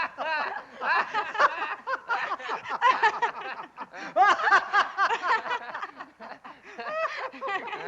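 People laughing in quick, breathy bursts of laughter.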